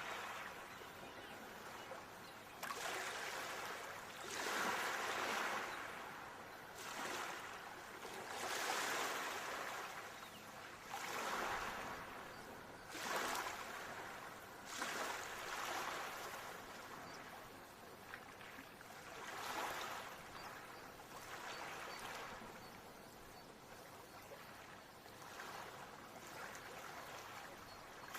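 Ocean waves washing ashore, a steady hiss of surf that swells and fades every two to three seconds.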